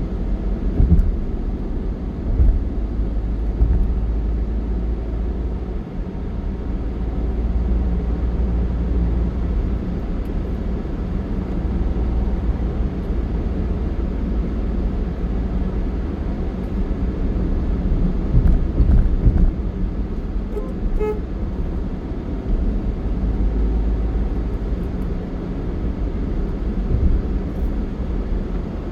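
Steady road-vehicle travel noise: a continuous low rumble with gusty wind buffeting on the microphone. A vehicle horn toots briefly about two-thirds of the way through.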